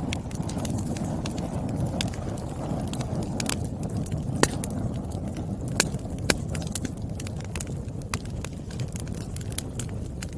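Wood fire burning in a fireplace: a steady low rush of flames with irregular sharp crackles and pops from the burning logs, a few louder snaps near the middle.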